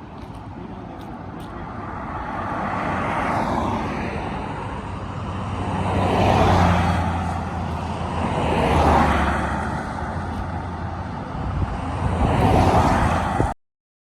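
Road traffic: several cars passing one after another, each swelling up and fading away, until the sound cuts off suddenly near the end.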